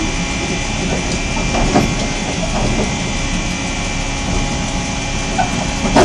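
Diesel railcar running steadily as it rolls slowly along the track, heard from inside the driver's cab. There is a brief knock near the end.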